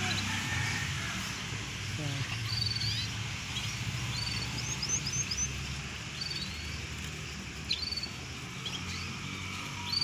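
Small caged birds chirping: short, high, rising call notes scattered every second or so, over a steady low rumble.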